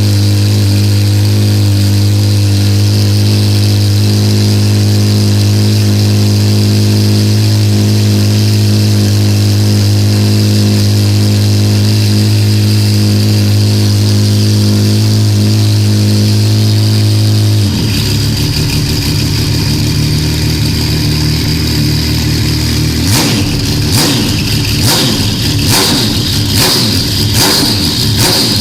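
Pennzoil Nismo GT-R JGTC race car engine running loud and steady at a held speed, then dropping to a lumpier, rougher idle about two-thirds of the way through. Near the end a rapid run of sharp cracks comes in over the engine.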